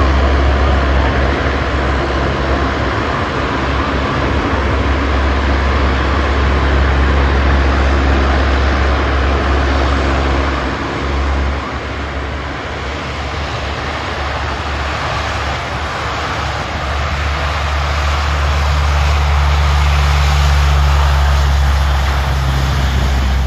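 Aircraft engine noise: a loud, continuous rush with a deep rumble that eases off about halfway and swells again toward the end.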